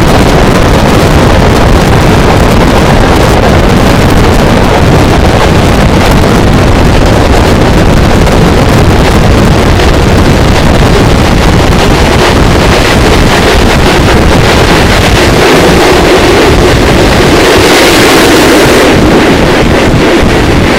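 Passenger train running, heard from on board as a loud, steady rumble with heavy wind buffeting on the microphone. Near the end the deep rumble drops away and a brighter hiss swells for a second or two.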